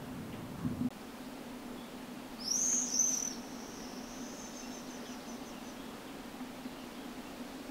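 A small bird gives two short, high-pitched calls about two and a half seconds in, trailing off into a faint twitter. There is a soft bump just before the one-second mark.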